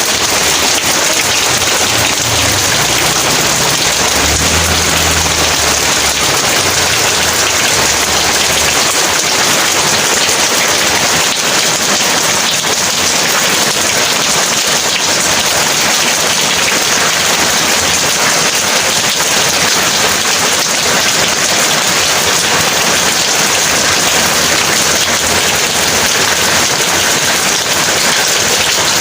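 Heavy rain pouring steadily, with a low rumble of distant thunder during the first nine seconds or so that then fades out.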